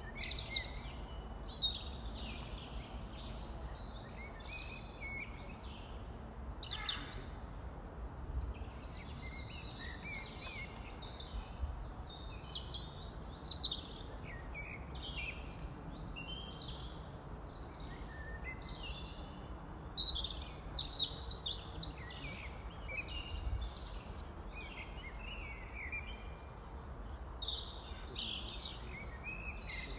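Several small birds singing and chirping over one another, with a steady low rumble underneath.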